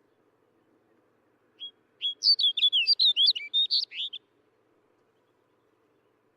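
Snow bunting singing one short, rapid warbled phrase of quick, varied whistled notes. It starts about one and a half seconds in with a single note and lasts about two and a half seconds.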